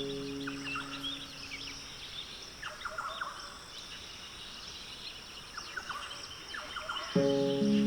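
Small birds chirping over a steady hiss of ambience. Soft, sustained music notes fade out in the first two seconds, and a new chord comes in near the end.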